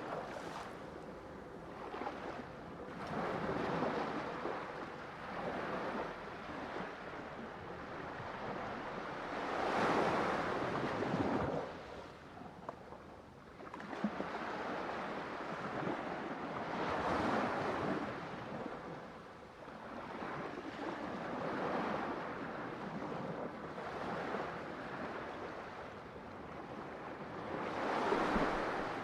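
Ocean waves breaking on a shore, a steady wash of surf that swells and recedes every few seconds, with stronger breakers about a third of the way in, past the middle, and near the end.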